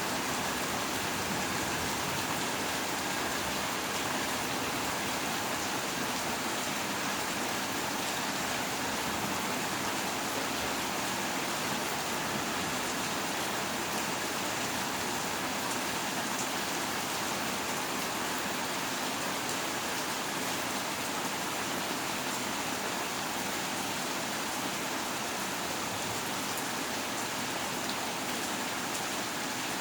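Steady rain from a thunderstorm, an even hiss that holds without thunder or changes.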